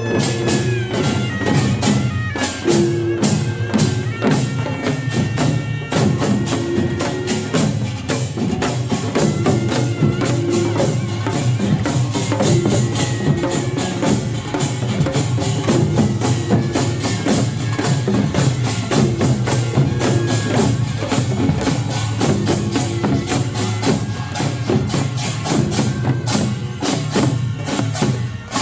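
Korean pungmul band playing at full volume: a dense, fast rhythm of kkwaenggwari small gongs and janggu and buk drums, over the sustained ring of jing gongs, with a wavering taepyeongso melody above.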